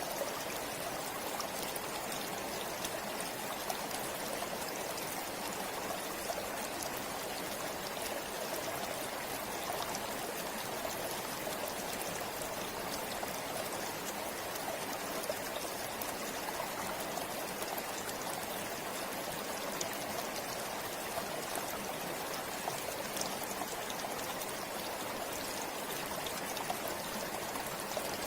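River or stream flowing steadily over stones, a continuous rushing and babbling of water with small splashes and drips throughout.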